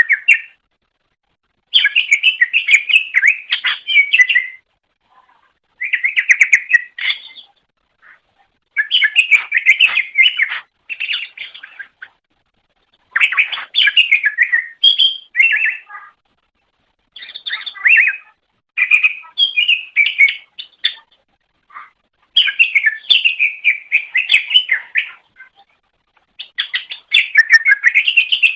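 Greater green leafbird (cucak ijo) singing: rapid, varied warbling and chattering phrases of about two to three seconds each, about nine of them, with short pauses between.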